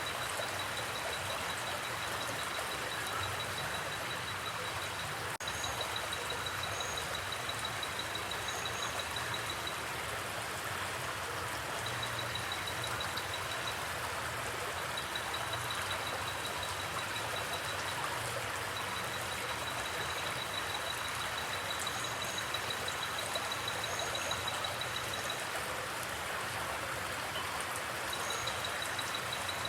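Steady rush of flowing creek water. Over it, a high, rapid ticking trill comes and goes in bouts of a few seconds, with a few faint higher chirps.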